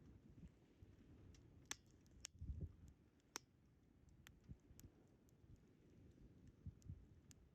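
Wood fire crackling faintly: about ten sharp pops and snaps at irregular intervals over a low, steady noise.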